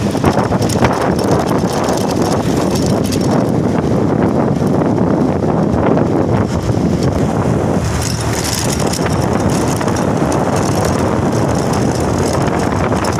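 Steady running noise of a moving vehicle, a low rumble with heavy wind buffeting the microphone.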